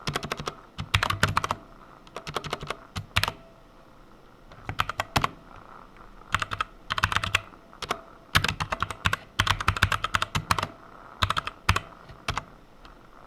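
Computer keyboard typing in short bursts of rapid keystrokes with brief pauses between them.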